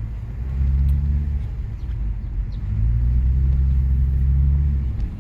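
Lexus IS250 driving, heard from inside the car: a low steady engine and road hum that swells twice, with no brake creak audible, a sign the creaking brake has been cured.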